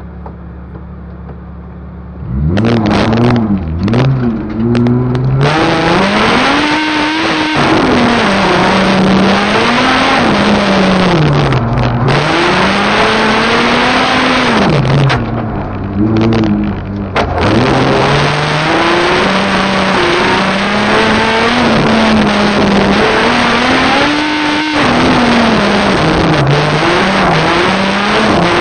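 VW Golf VR6 engine, heard from inside the car, idling steadily for about two seconds, then revving hard as the car drives off. Its pitch rises and falls continuously with throttle and gear changes, with a couple of brief lifts off the throttle around the middle.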